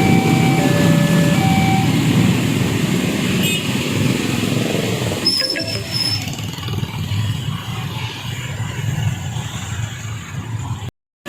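Railway level-crossing warning alarm sounding its alternating two-tone chime, stopping about two seconds in. A steady rumble of passing vehicles continues, with a brief high squeal about five seconds in. The sound cuts off abruptly just before the end.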